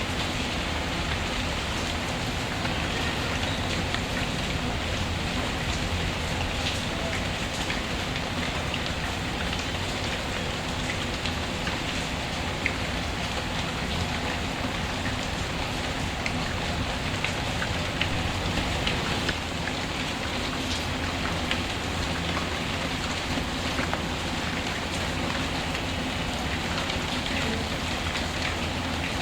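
Steady rain falling, with scattered small sharp crackles of a wood fire burning.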